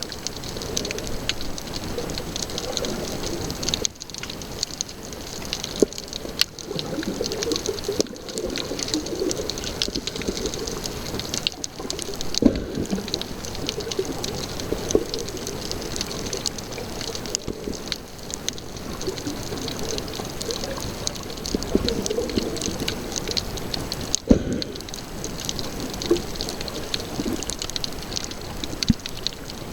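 Sea water sloshing and bubbling around a camera held in the water by a snorkeler, with scattered sharp clicks and pops.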